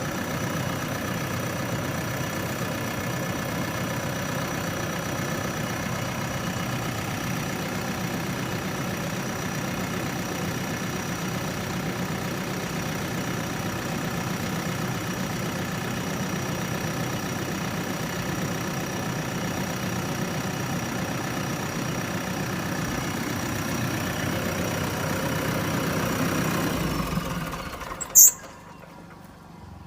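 JCB backhoe loader's diesel engine running steadily, with a thin high whine held over it. The sound cuts off suddenly near the end, followed by a single sharp click.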